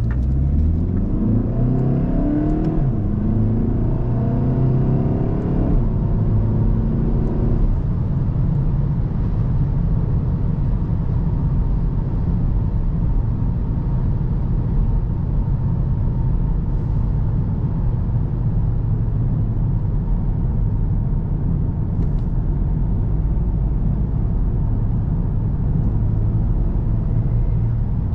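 2017 VW Golf GTD's 2.0 TDI four-cylinder diesel accelerating through its DSG gearbox. The engine note rises and drops back at quick upshifts about 3 and 6 seconds in. After about 8 seconds it settles into a steady cruising drone with tyre and road noise.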